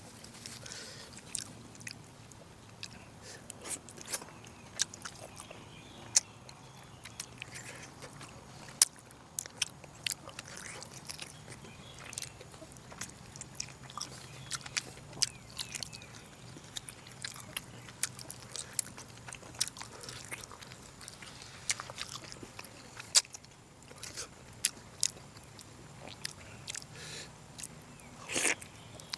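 Close-up eating sounds of a person chewing and biting braised pork, with many irregular sharp wet clicks and smacks of the mouth.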